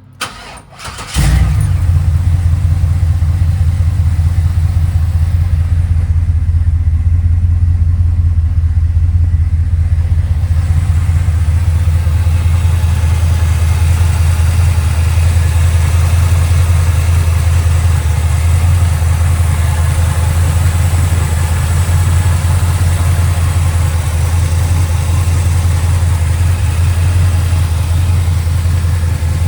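1972 Chevrolet Corvette V8 being started: a brief crank, the engine catching about a second in, then a steady idle with a deep exhaust note.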